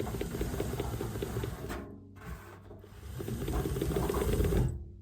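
Rapid clicking, rattling mechanical rub in two spells of about two seconds each, from the opened tumble dryer being handled.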